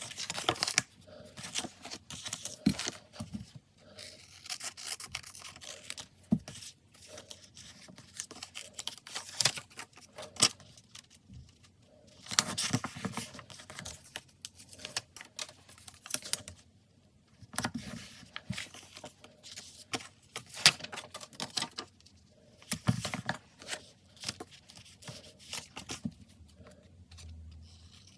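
Paper stickers being peeled off their backing sheets and pressed and rubbed down onto diary paper, with paper rustling and small clicks and taps in irregular bursts, and a few short pauses between them.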